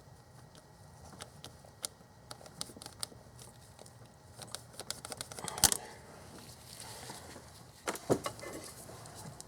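Hands cutting and handling a plastic fuel line with a razor blade: scattered small clicks and crackles, a sharp snap a little past halfway, and a few knocks near the end.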